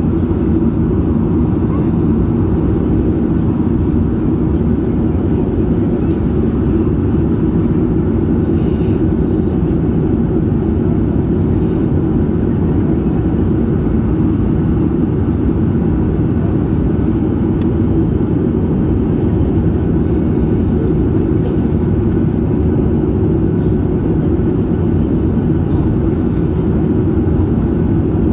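Steady cabin noise inside a Boeing 737 MAX 8 in descent: an even, low rumble of its CFM LEAP-1B engines and the airflow over the fuselage.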